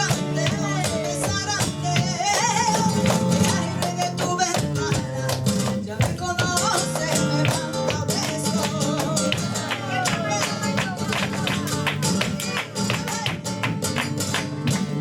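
Live flamenco tangos: flamenco guitar with a cante singer's wavering vocal lines, over dense, sharp percussive strikes throughout.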